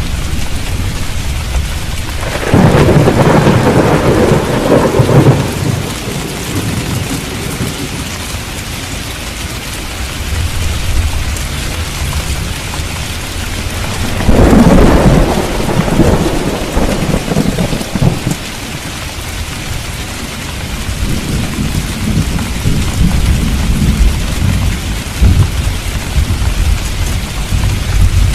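Steady heavy rain in a thunderstorm, with thunder rumbling loudly twice, about two seconds in and again about halfway, and lower rumbles through the last third.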